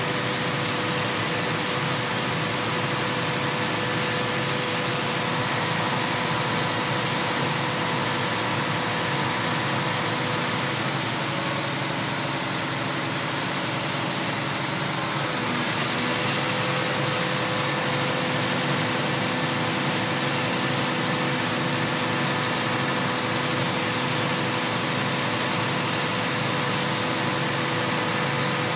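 A motor running steadily, an even hum with a faint steady whine; its pitch dips briefly about halfway through, then settles again.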